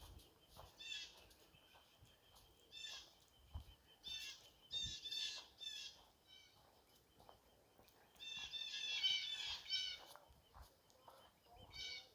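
A songbird singing high warbled phrases in short bouts, several times over, with the longest run about two thirds of the way in.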